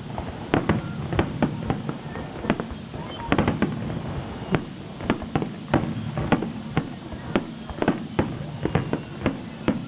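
Fireworks display: aerial shells bursting in a rapid, irregular series of bangs, several a second.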